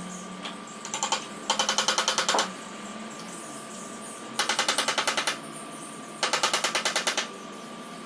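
A power tool hammering rapidly on metal in three bursts of about a second each, about ten strikes a second, over a steady high hum.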